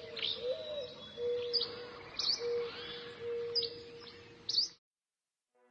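Birds chirping: repeated short, sharp high chirps over a lower whistled note that comes and goes. The birdsong cuts off abruptly about four and a half seconds in.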